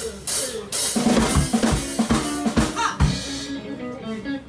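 Live rock band starting a song: a couple of sharp cymbal or stick strikes, then from about a second in the drum kit and bass come in with steady beats and held low notes.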